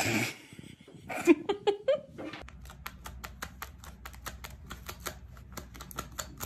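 A few short, loud pitched cries in the first two seconds, then rapid, even clicking, about eight clicks a second, as a fluffy white pet paws at a smartphone screen.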